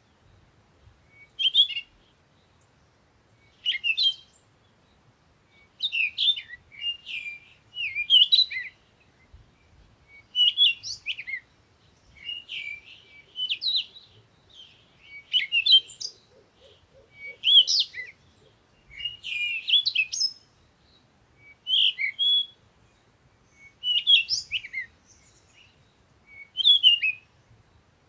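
Birdsong: short, high chirping phrases repeated about every two seconds, with quiet gaps between them.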